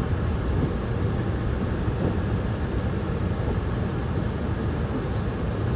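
Snowstorm wind buffeting the microphone: a steady low rumble with gusty wavering.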